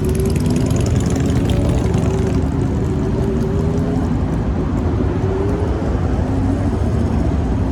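A car engine idling steadily close by, its pitch wavering slightly.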